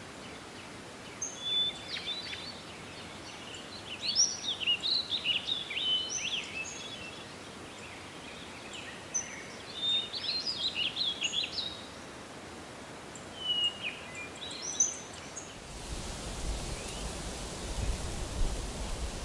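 A bird singing in phrases of quick, varied chirping notes, four phrases a few seconds apart. Near the end the song stops abruptly and a steady rushing noise takes over.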